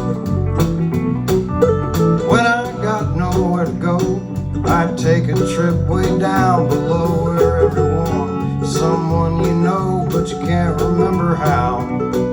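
Country band playing live: guitars over a steady drum beat, with a lead line that bends and wavers in pitch.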